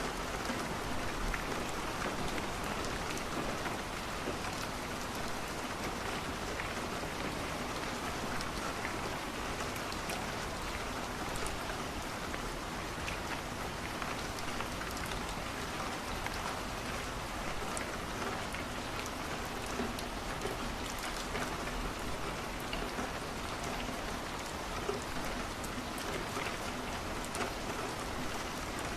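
Steady rain falling against a window: an even hiss with faint, scattered ticks of drops.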